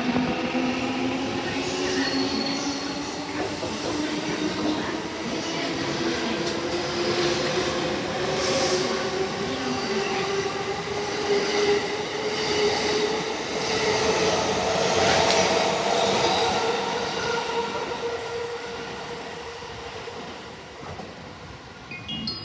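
Electric commuter train pulling out of the station: its inverter-driven traction motors give several tones that climb slowly in pitch over about fifteen seconds, while the train's running noise fades as it moves off.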